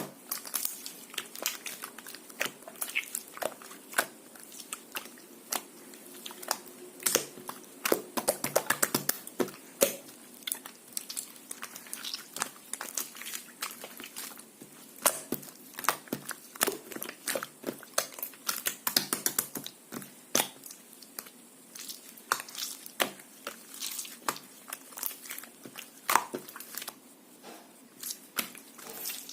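Soft, tofu-textured white slime being squished and pressed by hand, giving a run of irregular small clicks, pops and crackles, densest about a third of the way in.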